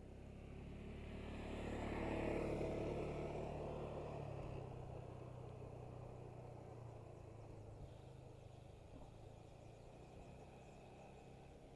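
A motor vehicle passing by, swelling to its loudest about two seconds in and then slowly fading away.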